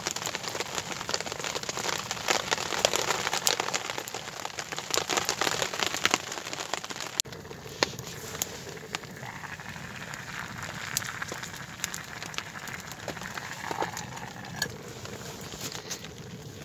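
Small wood fire in a dug-out pit crackling and hissing, with a steady stream of small sharp pops. It is densest for the first seven seconds or so, then settles lower.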